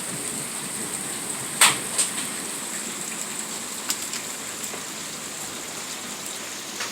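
Rain mixed with light hail falling steadily. A few sharp clicks of hailstones striking something hard stand out, the loudest about one and a half seconds in.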